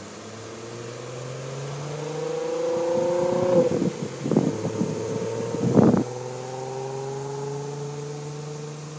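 A Volkswagen Golf hatchback's engine passing close by. Its note rises as the car approaches and drops after it goes by, about three and a half seconds in. Several loud thumps come between about four and six seconds in, the loudest near six, and the engine then fades away.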